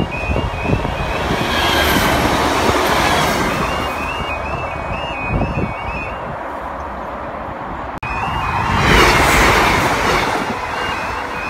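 Level crossing warning alarm sounding in a repeating two-tone yodel while a train runs over the crossing. The train's noise swells and fades, and swells again after a sudden break about eight seconds in.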